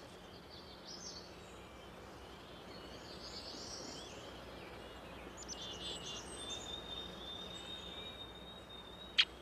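Woodland birds singing over a faint steady background hiss: scattered high chirps and trills, one long steady whistled note a little past the middle, and a single sharp, loud chip near the end.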